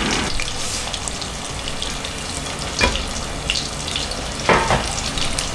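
Breaded fish fillets frying in hot peanut oil and a slice of bread toasting in butter in a frying pan: a steady sizzle with a few sharper crackles.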